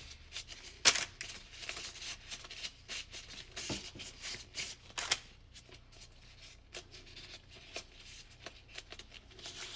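Hand-handling noises as the marshmallow mixture is molded: irregular soft rustles and small clicks, with one sharper click about a second in.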